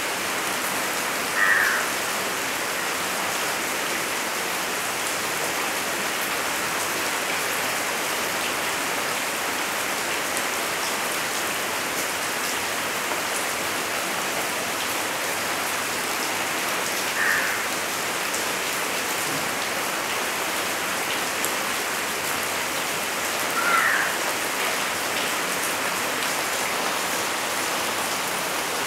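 Steady, even rain falling on palm fronds and surrounding foliage. Three short high chirps stand out over it: near the start, about halfway through, and again several seconds later.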